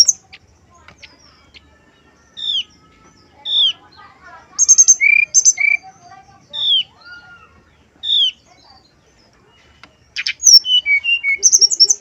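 Brown-chested jungle flycatcher singing: clear, loud whistled notes that slide downward in pitch, given singly about a second apart, with bursts of quick, very high notes in the middle and again near the end. Fainter, lower bird chatter runs underneath.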